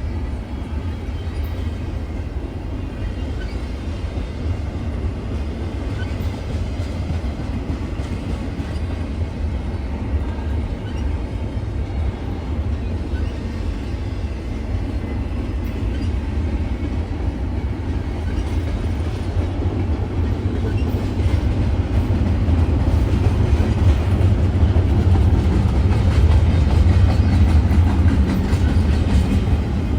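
Freight train rolling past, a steady low rumble of cars with wheel clickety-clack on the rails, growing louder about two-thirds of the way through.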